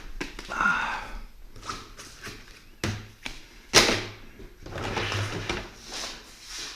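Rustling and scraping with a few knocks, the loudest a sharp knock a little under four seconds in, from handling the insulated garage door and the insulation inside its cutout.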